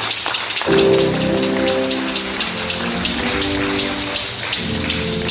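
Live church praise music: sustained chords come in under a second in, over busy, rapid high-pitched percussion like shakers or a tambourine.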